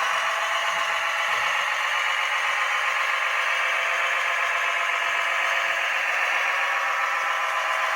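Radio-controlled scale construction model running steadily: a thin, even mechanical whine with several steady tones and no bass.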